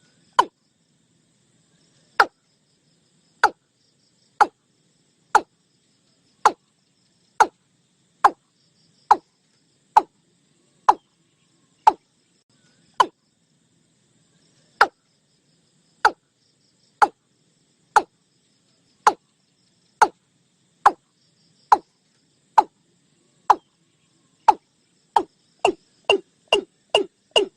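Watercock (Gallicrex cinerea) calling: short, sharp, downward-sliding notes repeated about once a second, speeding into a quicker run near the end.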